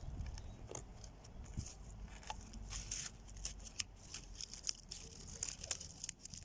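Dry plant stems, leaves and twigs rustling and crackling as they are handled and woven under and over the strings of a small twig loom, with many small irregular clicks.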